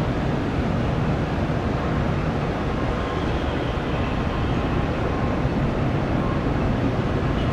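Steady rumble of jet aircraft engines, with a faint whine in the middle.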